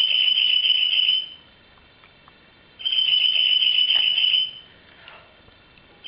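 Bridled titmouse call: a high, rapidly pulsed trill about a second and a half long, given twice, with a third starting at the very end.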